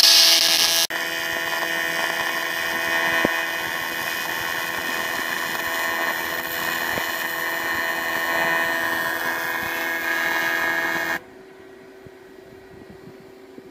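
AC TIG welding arc on aluminium: a sharp, loud crackle as the arc strikes, then a steady buzz for about eleven seconds that cuts off suddenly, leaving a faint hum.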